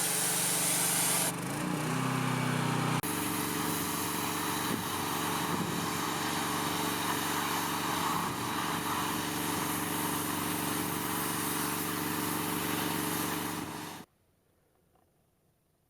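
Gas-engine pressure washer running with its high-pressure spray hissing against wood siding, stripping old stain. About a second in the spray stops and the engine pitch shifts. The spray resumes about three seconds in and runs steadily until the sound cuts off abruptly near the end.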